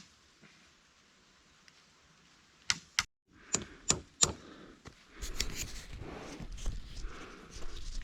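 Sharp knocks of strikes on wood: two close together, then after a short break three more about a third of a second apart, followed by steady rustling and crackling.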